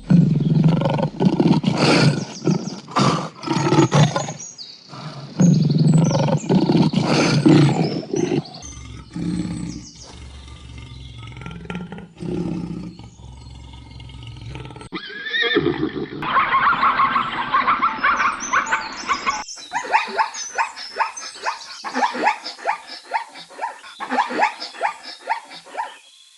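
A run of animal calls: deep, loud roar-like calls in the first eight seconds, quieter sounds through the middle, then rapid, high-pitched chirping calls packed close together for the last ten seconds.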